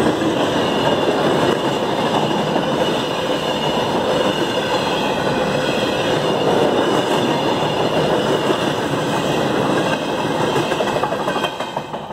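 Freight train's empty intermodal cars rolling past at speed: a steady rumble and clatter of steel wheels on the rails. It starts to fade near the end as the last car goes by.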